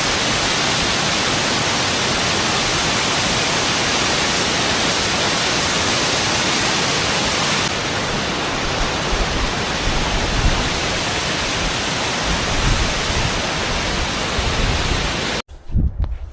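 Mountain waterfall's steady rushing roar of falling water. About a second before the end it cuts off abruptly to a much quieter scene with a few faint knocks.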